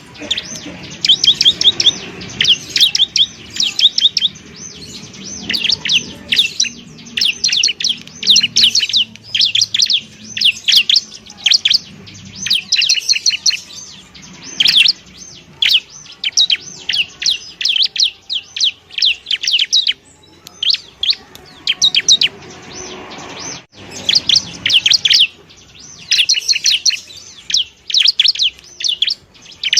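Bar-winged prinia (ciblek) singing: fast runs of high-pitched chattering notes, phrase after phrase, with a brief break about two-thirds of the way through.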